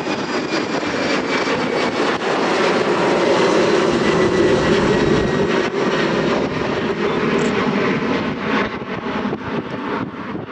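Jet airliner passing close by, its engines making a loud rushing noise with a high whine that falls slightly in pitch. The noise is loudest about halfway through and eases off near the end.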